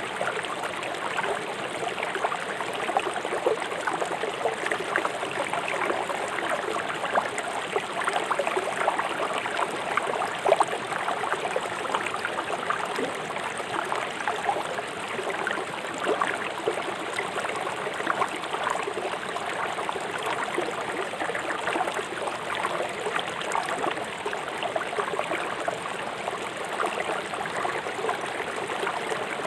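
A swift river rushing over stones: a steady rush of water, full of constant small splashes and gurgles.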